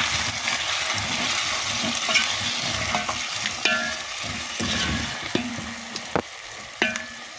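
Beef and onions sizzling in a granite-coated pan while a spatula stirs them, with scrapes and knocks against the pan. The sizzle eases off somewhat toward the end.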